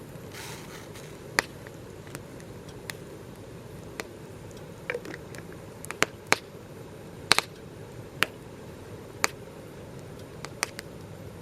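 Campfire crackling: irregular sharp pops and snaps, about a dozen, over a low steady rush.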